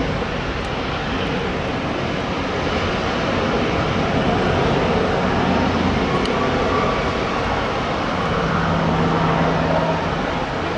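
Distant jet airliner engines: a continuous rush that swells a little midway, with a low steady hum for about two seconds near the end.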